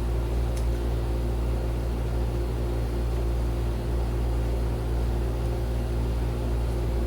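Steady low machine hum with a few faint constant tones running through it, unchanging throughout.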